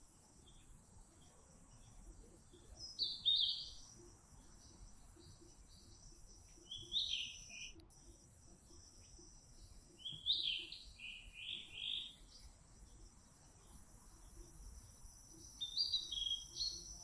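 A small bird chirping in short, quick phrases of a few high notes, repeated about five times with pauses of a few seconds between them, over a faint steady high hiss.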